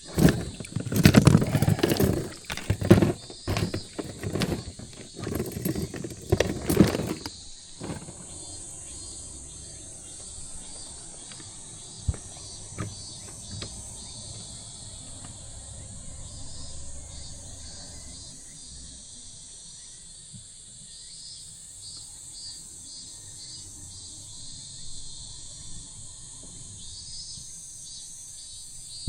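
Insects chirring steadily at a high pitch, with repeated trilling pulses. In the first several seconds this is drowned by loud, irregular rustling and knocking close to the microphone.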